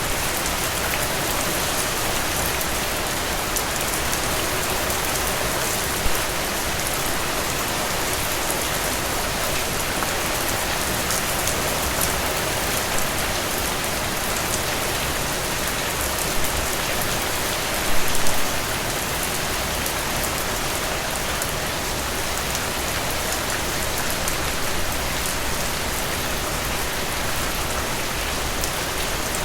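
Heavy rain falling steadily, a dense even hiss with a few louder drops striking close by, one about six seconds in and a small cluster at about eighteen seconds.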